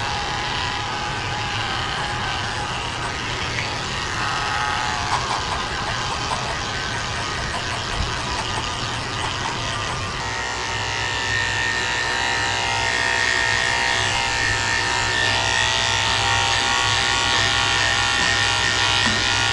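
Electric pet clippers buzzing steadily as they shave a dog's coat. About halfway through, the buzz turns smoother and more even, with a clear steady hum, and gets slightly louder.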